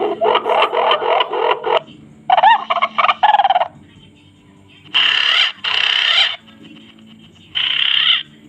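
Recorded bird calls played back through a homemade MP3 bird caller's loudspeaker: rapid, repeated call notes in four bursts of one to two seconds, with short pauses between them.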